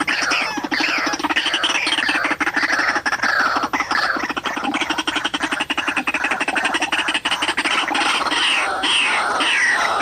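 White-breasted waterhen (ruak-ruak) calling: loud, harsh, repeated croaking calls that slide downward, running into a fast rattling series in the middle.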